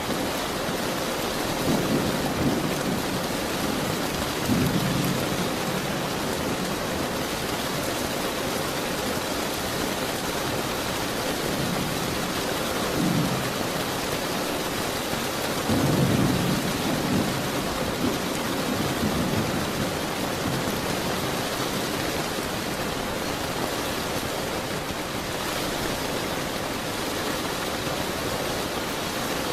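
Steady rain with thunder rumbling low several times, the loudest roll a little past halfway.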